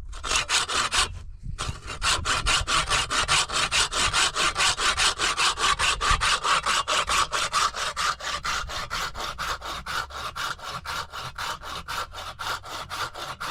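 Hand saw cutting through wood in quick, steady back-and-forth strokes, about four a second, with a brief pause a little over a second in.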